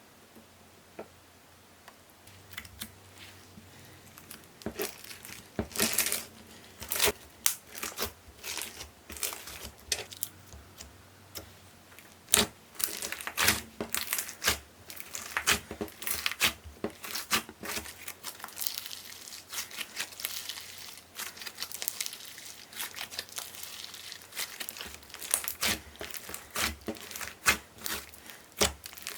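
Handmade slime being kneaded and stretched by hand, giving off a dense, irregular run of sticky clicks and crackling pops.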